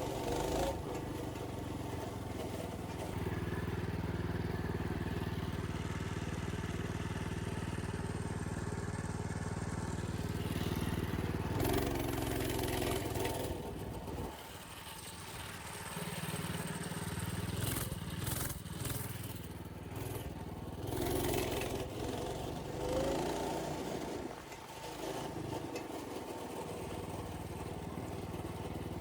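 Old minibike's small engine running while being ridden along a dirt trail, its pitch rising and falling with the throttle and easing off for a moment about halfway through. A few sharp rattling knocks come in the middle.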